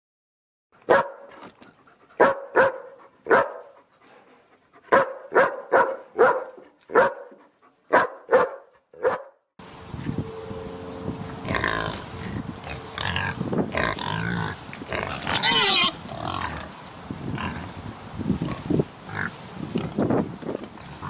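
Pig grunting and oinking in short, separate calls, about a dozen over the first nine seconds. Then a noisier recording with more varied animal calls, some gliding in pitch.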